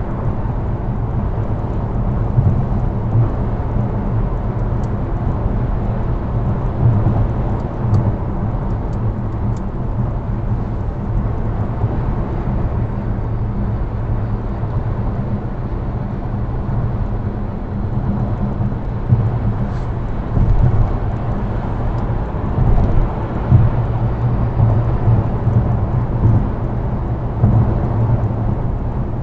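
Steady low road and engine rumble of a car driving, with several short louder swells in the second half as other vehicles pass.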